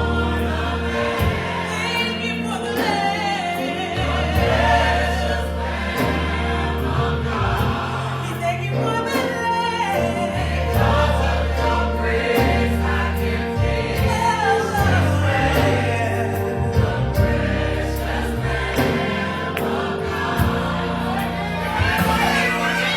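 Gospel choir singing in harmony over a band, with a steady bass line and a regular beat.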